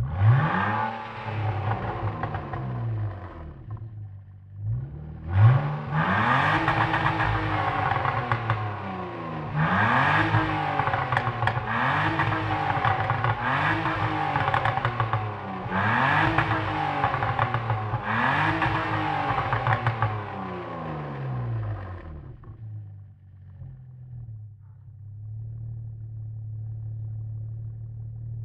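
BMW M52B20 2.0-litre inline-six, with a flap valve in its exhaust, revved in repeated blips: the pitch climbs and falls back every two seconds or so, about eight times. It then settles to a steady idle for the last several seconds and starts to rev again near the end.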